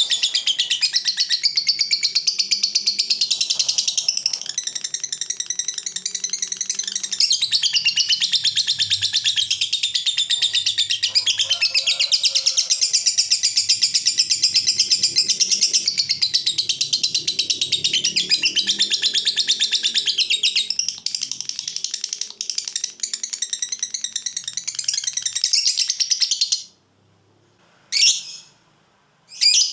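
Lovebird singing a long unbroken 'ngekek': a very fast, high chattering trill that stops abruptly about 26 seconds in, followed by two short single chirps near the end. The long-running ngekek is the song prized in fighter lovebirds.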